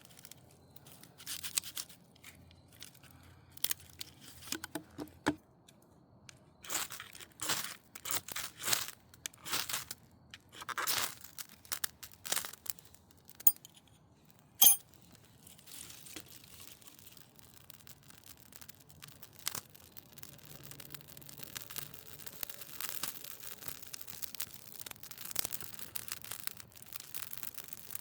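A run of irregular short rustling noises, then a single sharp click about halfway through, followed by a faint steady hiss.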